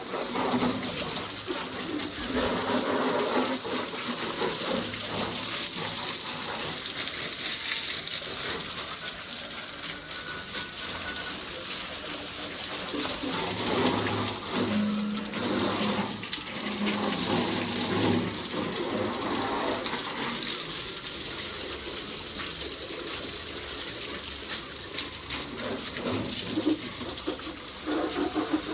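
Steady hiss of a water jet spraying onto a Mahindra 275 tractor, washing the mud off it.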